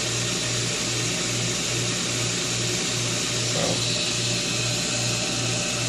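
Pool pump's electric motor running steadily, a low hum that pulses about three times a second over a constant hiss of running machinery.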